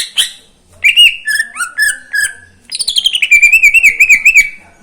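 Cucak ijo (green leafbird) singing loudly: a sharp opening note, a string of clear whistled notes, then a fast warbling trill of about six notes a second that stops shortly before the end.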